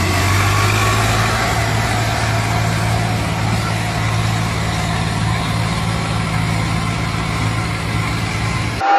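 A tractor engine running steadily with a constant low hum, which cuts off abruptly just before the end.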